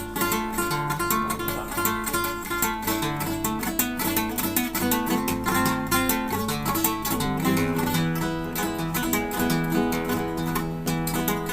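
Acoustic guitar played solo, a steady stream of plucked notes over a moving bass line.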